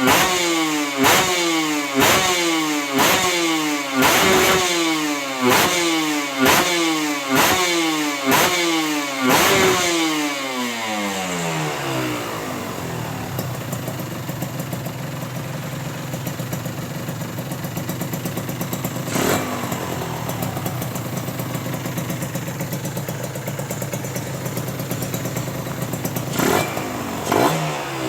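Motorcycle with a KNC Racing big-volume aftermarket exhaust, the throttle blipped about once a second for roughly the first ten seconds, each rev falling away, then settling to a steady idle. Another short blip comes about two-thirds through, and two more near the end.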